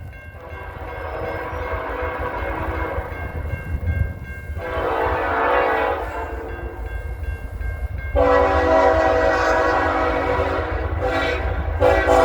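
Diesel freight locomotive's air horn sounding a steady chord in long blasts, each louder than the last, with a fourth starting near the end, over the low rumble of the approaching train.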